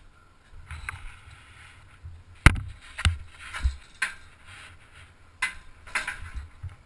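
A series of hard knocks and clanks, the loudest about two and a half seconds in and the rest spread over the following few seconds, over a low steady rumble.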